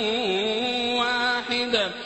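Quran recitation: a reciter's voice holding one long ornamented note on a drawn-out syllable, gliding down in pitch near the end.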